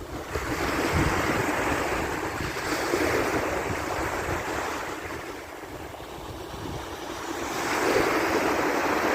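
Ocean surf washing onto the beach, swelling and fading in slow waves, with wind buffeting the microphone.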